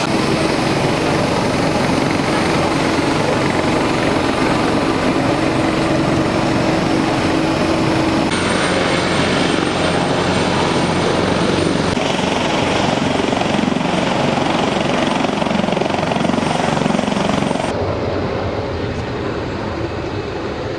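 Aircraft engines running with a loud, steady drone and a held hum through the first several seconds. The sound shifts abruptly a few times and grows a little quieter near the end.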